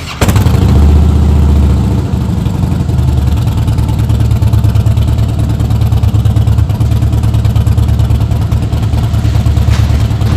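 Large V-twin cruiser motorcycle engine running loud, coming in suddenly just after the start; for the first couple of seconds it holds a steady higher note, then settles into a fast, throbbing idle.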